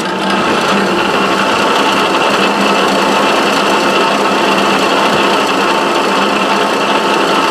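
Milling machine spindle running steadily with a 5/8-inch end mill cutting a pocket in a Delrin block: an even machine hum with several steady tones.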